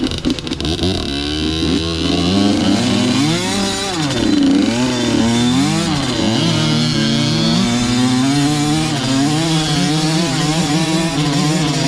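Two-stroke motocross dirt bike engine being ridden hard, the revs rising and falling again and again as the throttle opens and closes.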